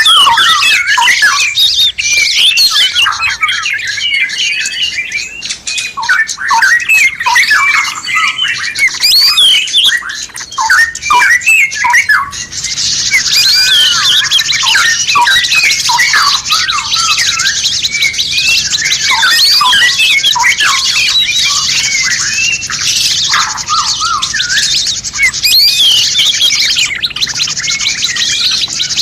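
Many songbirds chirping and calling at once in a dense chorus of quick, sliding whistled notes. About twelve seconds in, a steady high hiss joins underneath the calls.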